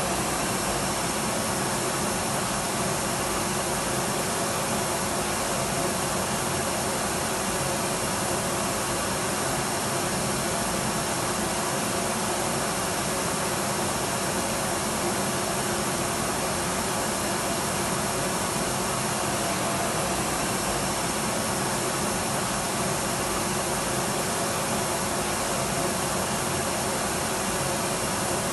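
Electric vacuum cleaner running steadily: an even rush of air with a faint, high, steady motor whine, no change in pitch or level.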